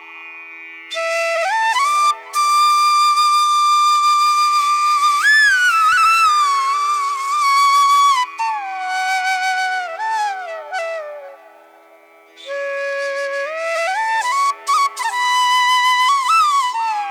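Background music: a slow flute melody of long held notes and gliding slides over a steady drone, pausing briefly about two-thirds of the way through.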